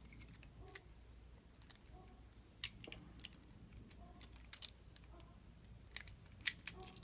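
Faint, scattered light clicks and taps of small diecast toy-car parts being handled, as wheels and axles are fitted into a Hot Wheels car's metal base.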